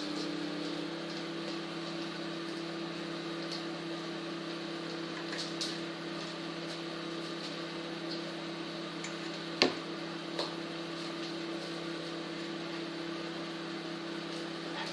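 Microwave oven running, a steady hum with fan noise. One sharp click comes about two-thirds of the way through, with a few fainter ticks.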